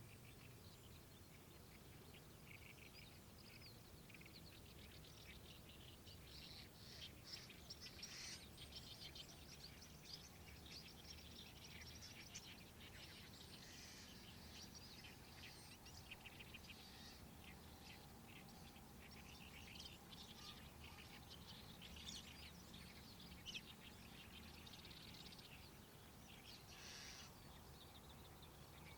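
Birds singing, a dense run of rapid chattering calls that carries on throughout, faint over a low steady rumble.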